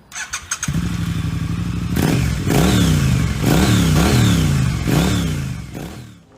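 A few clicks, then a Suzuki V-Strom motorcycle engine starts and idles steadily. From about two seconds in it is blipped several times, the pitch rising and falling with each rev, and it dies down near the end.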